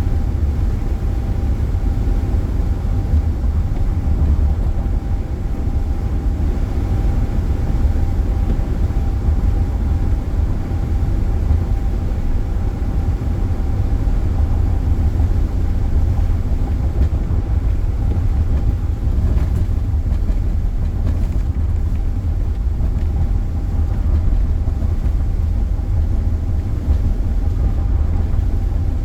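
Steady low rumble of a car driving at speed, with a faint steady whine over it.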